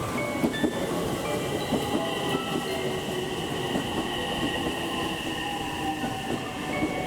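JR West 227-series electric train moving along the platform track: a low rumble with wheel clicks over the rail joints and short, high wheel-on-rail squeals.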